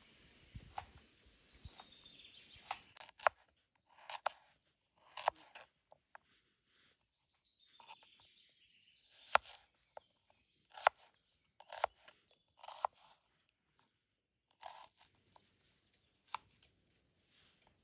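A series of sharp, irregular knocks and cuts, roughly one a second, with a brief hiss about eight seconds in.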